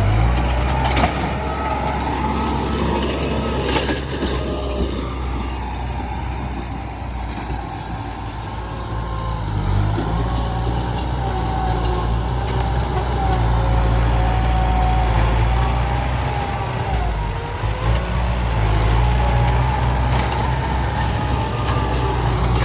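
Heavy truck engine running steadily with a deep, constant rumble and a wavering higher whine. A few sharp knocks come about a second in, around four seconds in and near the end.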